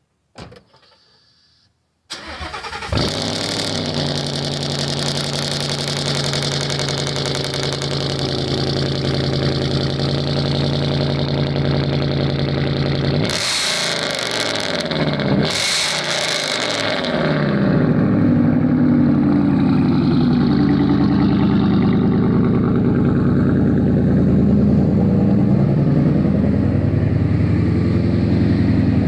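2016 Ford Mustang GT's 5.0 Coyote V8 with a Roush cat-back exhaust cold-starting about two seconds in: it cranks, catches with a flare and settles into a high cold idle. It is revved twice, briefly, around the middle, then idles steadily and louder.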